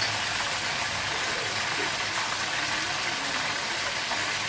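Whole chicken frying in hot oil in a pan, a steady sizzle with a faint low hum underneath.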